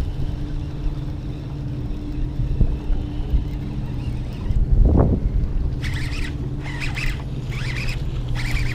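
Strong wind buffeting the microphone in a steady low rumble, with a low steady hum under it and one louder swell about halfway. From about six seconds in, short scratchy rustles come in bursts.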